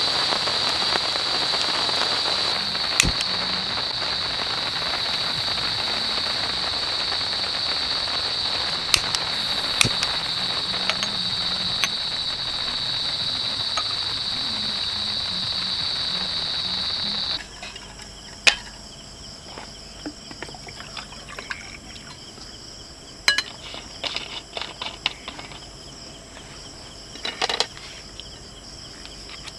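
Insects trilling in one steady high note over an even hiss. About two-thirds of the way through, the hiss drops away suddenly, and a different, higher insect trill carries on with scattered light clicks and knocks.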